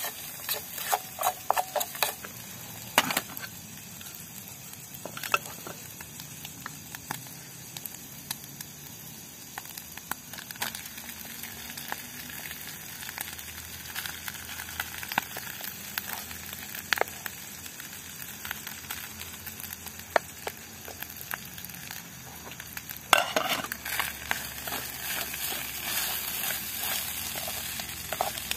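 Egg and rice frying in a small nonstick pan on a portable butane gas stove, sizzling steadily. A spoon, then a wooden spatula, scrapes and taps against the pan as it is stirred, in a busy flurry at the start and again about four-fifths of the way through.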